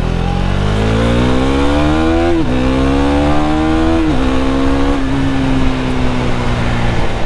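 KTM Duke 390's single-cylinder engine accelerating hard through the gears. The revs climb, drop sharply at a clutchless upshift about two and a half seconds in, climb again and drop at a second upshift about four seconds in, then hold nearly steady.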